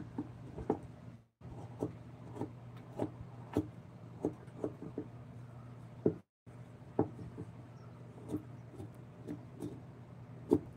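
Light wooden knocks from hand tools working a wooden carving, irregular and about one or two a second, over a steady low hum. The sound cuts out briefly twice.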